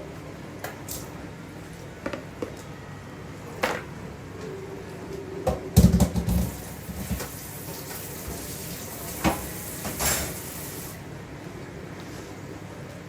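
Household handling sounds: scattered knocks and clatters of things being moved or set down, the loudest a heavy thump with a few quick rattles about six seconds in, and a faint hiss for a few seconds after it.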